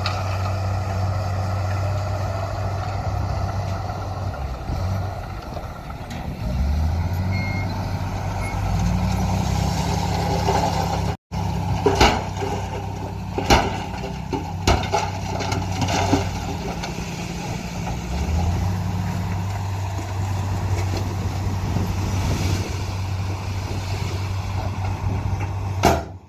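Heavy diesel earthmoving machinery running steadily, the engine revving up and later settling back down, with several sharp metal clanks in the middle.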